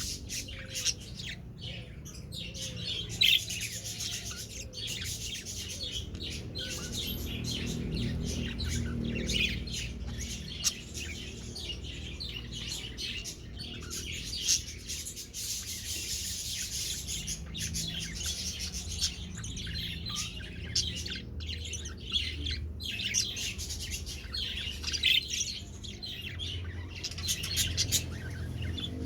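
Young budgerigars chirping and chattering continuously, many short overlapping calls, over a low steady hum.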